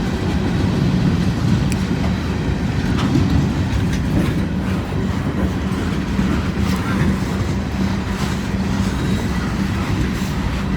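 A long CSX freight train's cars rolling past, a steady low rumble with a few scattered clicks of wheels over the rail joints.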